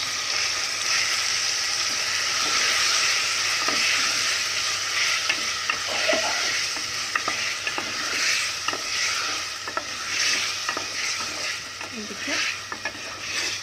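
Chicken pieces frying in hot oil in an aluminium pot, with a steady sizzle. A spoon stirs them, scraping and tapping against the pot again and again. The sizzle eases slightly near the end.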